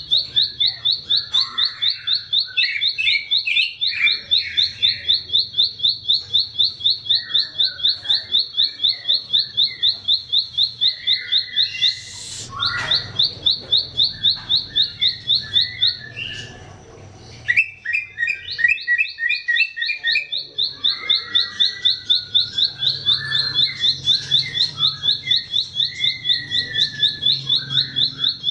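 Ciblek sawah (a prinia) singing a fast, even series of high, sharp notes several times a second, pausing briefly twice, with other lower chirps mixed in.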